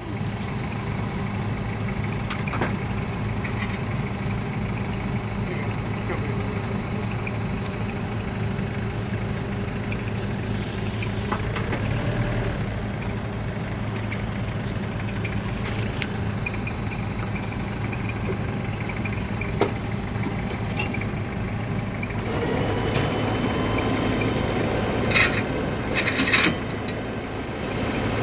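A vehicle engine idling steadily, with a few sharp metallic clanks near the end.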